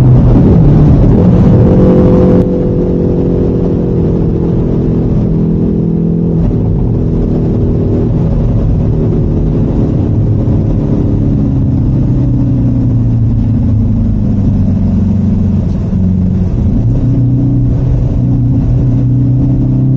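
Car engine heard from inside the cabin on a track lap, running steadily under load. Through the middle its pitch slides slowly down as the car slows, then picks up again and holds steady near the end.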